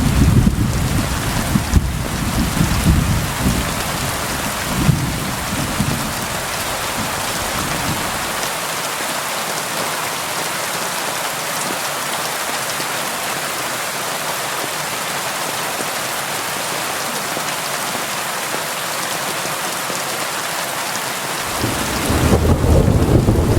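Steady rain on a window, with rolling thunder. A low rumble at the start dies away after about seven seconds, and another rumble builds near the end.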